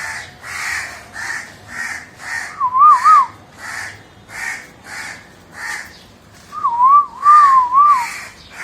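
A crow cawing over and over, about two harsh caws a second. A loud, wavering whistle cuts in briefly about three seconds in, and again for a longer stretch near the end.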